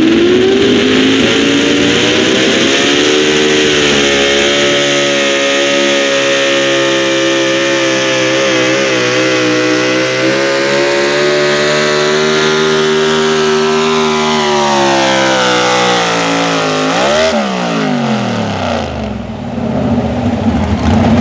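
Pulling tractor engine running at full throttle under load. Its pitch climbs at the start and holds high for about fifteen seconds, then drops as the throttle comes off. There is one short rev near the end before it settles to idle.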